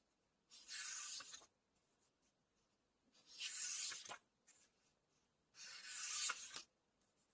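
Pages of a book being turned, three times: each a paper swish of about a second, the later two ending in a light flap as the page lands.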